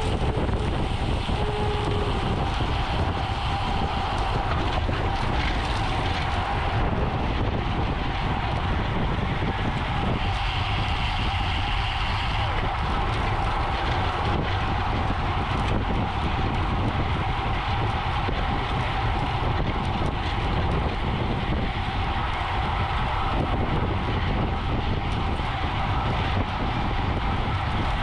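Wind rushing over the microphone of a camera riding on a racing bicycle at speed, a steady low rush with a faint steady hum.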